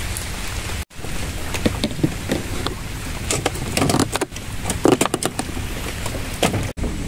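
Rain falling on a river and on a wooden boat, over a steady low rumble, with scattered light knocks. The sound cuts out briefly about a second in and again near the end.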